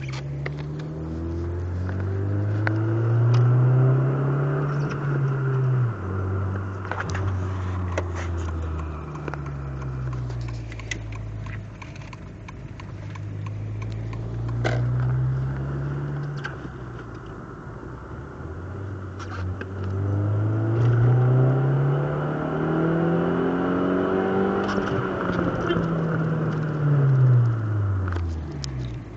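2007 VW City Golf's 2.0-litre four-cylinder engine heard from inside the cabin through a 2.5-inch exhaust with two high-flow resonators and a Maximus Storm performance muffler. The exhaust note climbs and drops through several pulls, with a sharp fall in pitch about six seconds in. The longest climb comes in the second half, and then the revs fall away near the end.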